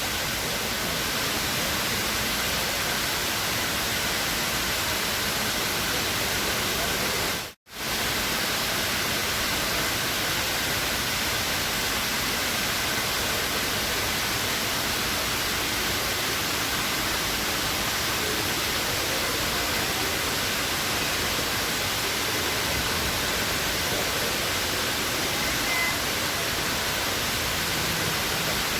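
Steady rush of water pouring down the Dubai Mall's indoor waterfall. It cuts out for an instant about seven and a half seconds in.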